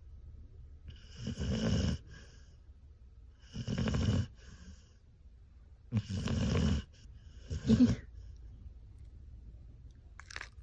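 A sleeping dog snoring: four snores about two seconds apart, each lasting under a second. The last is shorter and has a pitched note in it.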